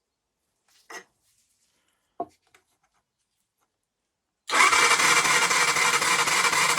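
A couple of light knocks, then the Jianshe JS200GY's 200cc four-stroke engine is cranked over on its starter from about four and a half seconds in, a loud steady churning run, during a spark test on an engine that had no spark.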